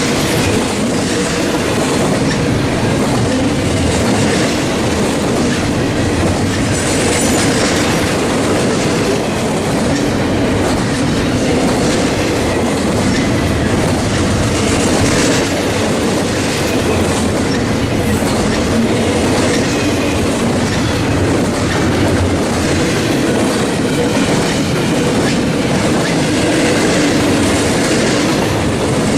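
A long train's cars rolling steadily past at close range, the wheels clacking in a regular rhythm over rail joints.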